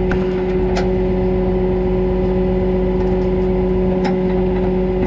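Flatbed tow truck's engine running at a steady idle, an even hum with a few light clicks over it.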